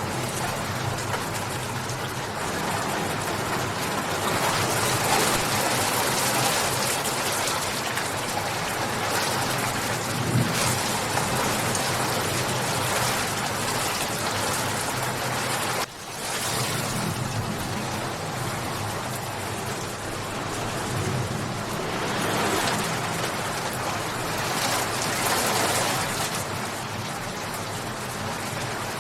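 Steady rain falling, a dense even hiss that swells and eases a little. The sound drops out for an instant about halfway through.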